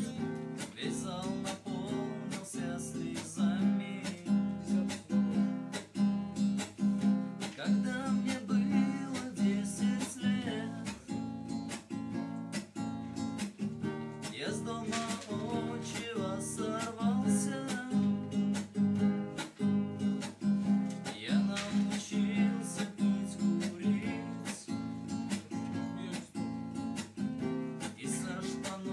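Acoustic guitar strummed in a steady rhythm, accompanying a man singing in stretches.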